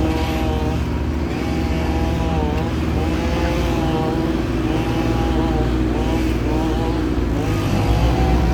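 Heavy engine running steadily with a low rumble, with a higher wavering tone rising and falling over it and breaking off every second or so.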